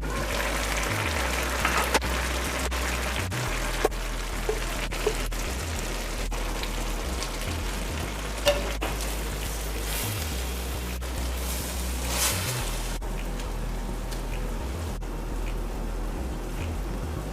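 Rice and pigeon peas sizzling in a hot wok as a steady hiss, with a few sharp clicks scattered through.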